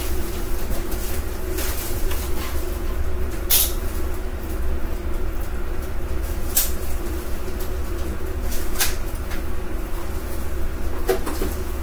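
A steady low mechanical hum, with a few short sharp clicks and knocks every couple of seconds.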